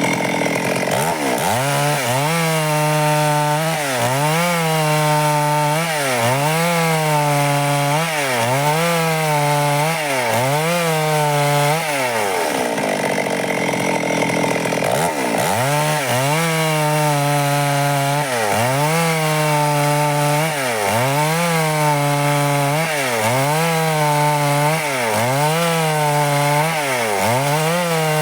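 Stihl chainsaw cutting lengthwise through wood under load. Its engine pitch dips and recovers about once a second as the chain bogs in the cut, and it eases off for about three seconds near the middle before resuming the same pattern.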